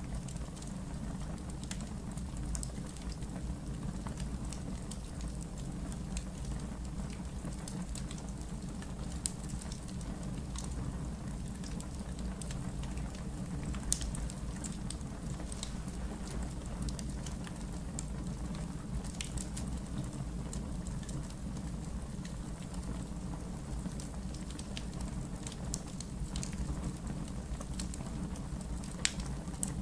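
Wood fire burning in a fireplace: a steady low rumble of flames with irregular small crackles and a few sharper pops of burning logs.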